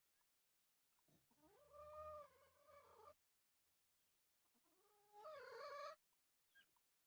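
Two long, drawn-out animal calls, each lasting about two seconds, one starting about a second in and the other about four and a half seconds in. Each rises and then falls in pitch.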